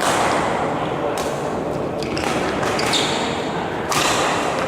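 A badminton rally: sharp racket strikes on a shuttlecock about once a second, with shoe noise on the court, ringing in a large hall.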